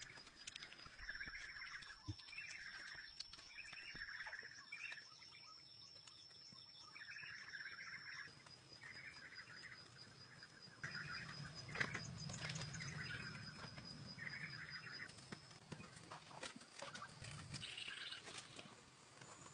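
Faint outdoor forest ambience. A bird calls over and over, about once a second, against a steady high-pitched whine that stops about three-quarters of the way through. Scattered light clicks and knocks sound throughout.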